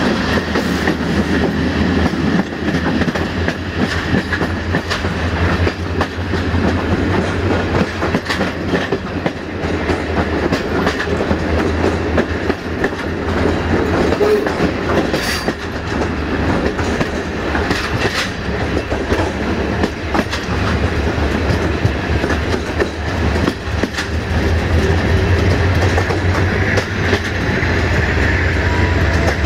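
Passenger train coach rolling at steady speed, heard from an open side window: a continuous rumble of wheels on rail with irregular clickety-clack over rail joints, and a few sharper clacks about halfway through as it runs over station points.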